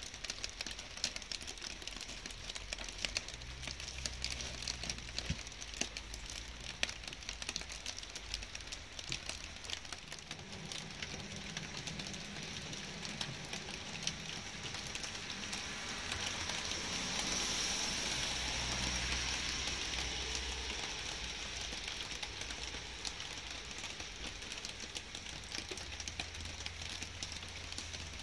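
Light rain falling steadily, with many close individual drops ticking sharply over the soft hiss. About halfway through, a broader hiss swells up and fades away again over a few seconds, over a faint low rumble.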